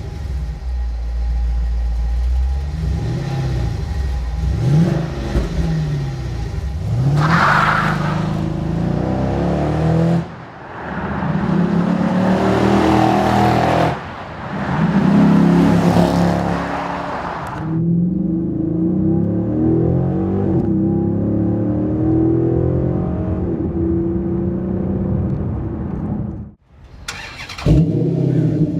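Dodge Challenger SRT8's 6.1-litre Hemi V8 exhaust in a string of short clips that cut abruptly from one to the next. The clips switch between the factory exhaust and a Flowmaster American Thunder cat-back with dual 40-series mufflers. The engine revs up and down, makes loud full-throttle runs with a rushing sound, then runs steadily.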